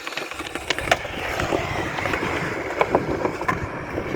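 Skateboard wheels rolling over concrete, a steady rumble that builds about half a second in, with sharp clacks as the board goes over joints and knocks.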